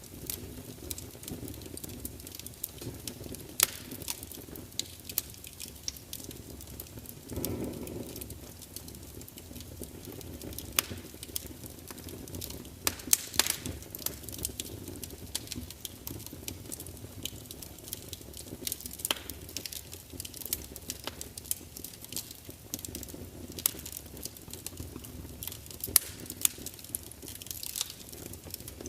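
Wood fire in a large open fireplace burning with a steady low rumble, and logs crackling and popping at irregular moments, with a brief whoosh of flame about a third of the way in.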